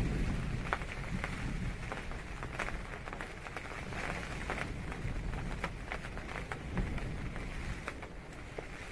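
Rain falling on a tent, a steady patter with many single drops ticking sharply on the fabric over a low rumble.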